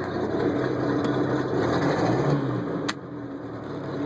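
Volvo Penta sterndrive engine of a 1998 Glastron SE 175 running and revved lightly with a little throttle. It rises in pitch to a peak about two seconds in, then drops back to idle about three seconds in.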